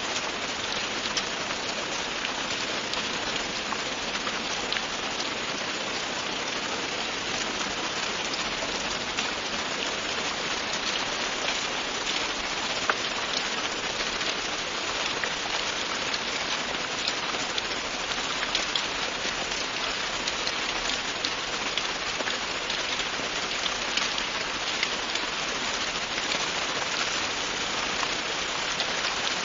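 Steady rain falling, a constant hiss with many small drop patters throughout.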